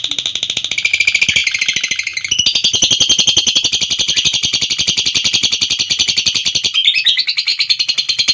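Lovebird giving a long 'ngekek' chatter: a shrill, unbroken trill of rapid, evenly repeated notes, shifting its pattern slightly about two seconds in and again near the end.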